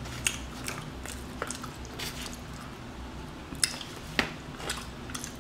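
Wet, sloppy chewing and lip-smacking on sauced chicken wings, with scattered sharp smacks and two louder ones about two-thirds of the way in.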